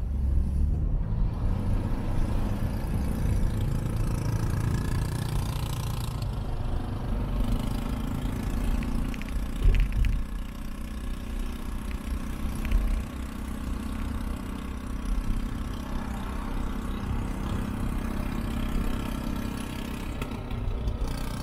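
A car driving in city traffic, heard inside the cabin: steady low engine and road rumble, with a sharp thump about halfway through.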